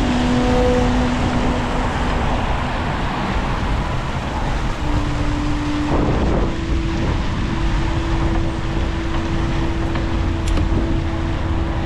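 Wind rush on the microphone and traffic noise from a bicycle riding through city streets in rain, with a steady low hum from a vehicle that shifts up in pitch about halfway through.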